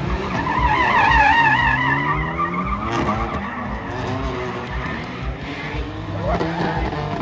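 Car tyres squealing in a slide, the squeal wavering in pitch and loudest in the first two seconds, over a high-revving car engine that rises and falls.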